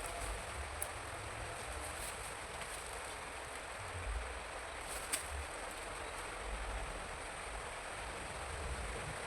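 Steady, even outdoor hiss with a low rumble underneath and two faint clicks, one about a second in and one about five seconds in.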